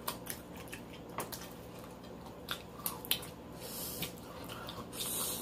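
Wet chewing and smacking of people eating close to the microphone, many sharp little mouth clicks, with two brief hissy breaths near the end.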